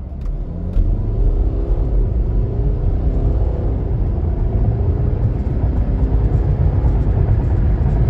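Mercedes-Benz GLK250 Bluetec's four-cylinder turbodiesel at full throttle from a standstill: the engine note jumps up about a second in over a deep rumble, its pitch climbing and falling back a few times as the automatic shifts up.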